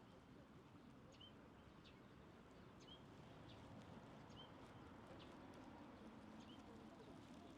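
Faint footsteps of someone walking, about one step every three-quarters of a second. A small bird repeats a short chirp every second or two over a low background murmur.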